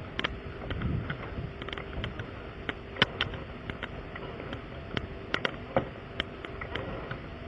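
Irregular sharp clicks and knocks of hand work on a car's flat tire and its tools, over a steady low background hum.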